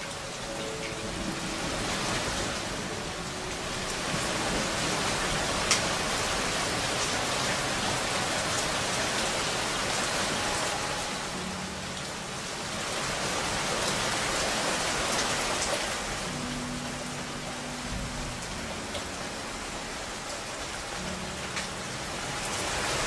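Steady heavy rain pouring down onto the ground and roofs, with a single sharp click about six seconds in.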